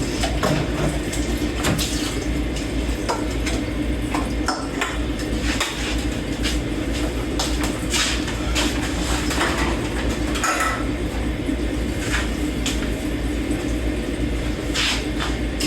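Dishes and cutlery being hand-washed in a kitchen sink: irregular clinks and knocks of plates and forks over a steady rush of water.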